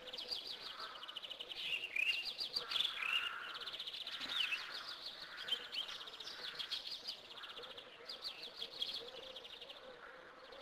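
Small birds chirping and trilling in quick runs of repeated high notes, mixed with short sliding chirps.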